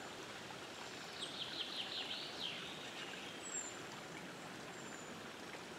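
A songbird sings a quick run of about six short notes about a second in, followed by a couple of thin, high whistles, over steady outdoor background hiss.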